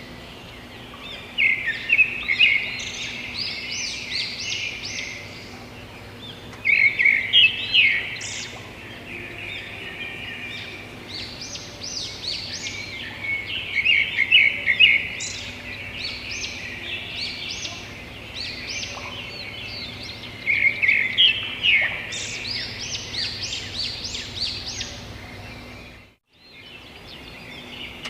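Many birds chirping and calling together, with louder bursts of rapid chattering every several seconds. The sound drops out completely for a moment near the end.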